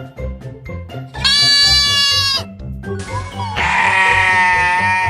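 Two high-pitched bleats from a young farm animal: a clear one about a second in, then a longer, rougher one from about three seconds in, over background music.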